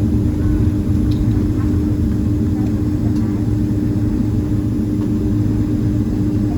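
Boeing 767-300ER engines and airflow heard inside the passenger cabin: a loud, steady drone with a constant hum.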